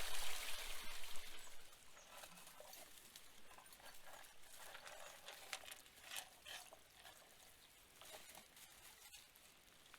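Water and gravel pouring into a small sluice, fading out after about a second and a half, followed by faint scattered taps and trickles as the flow runs out.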